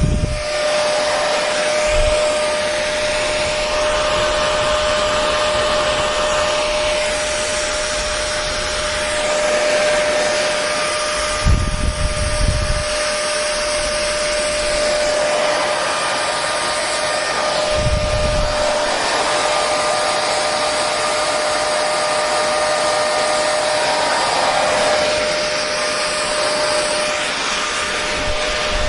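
Hair dryer running steadily: a constant rush of air with a steady whine. A few brief low rumbles come through, most clearly about 12 and 18 seconds in.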